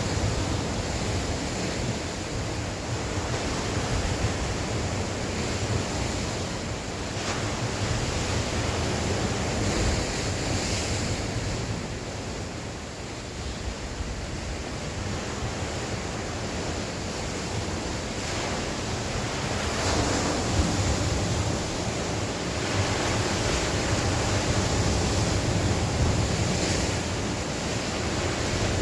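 Sea waves breaking and washing on the shore in a steady, continuous roar that swells and eases every few seconds, with wind blowing.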